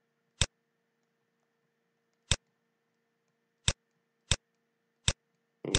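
Computer mouse clicking: five sharp single clicks spaced irregularly over several seconds, over a faint steady hum. A man's voice briefly sounds near the end.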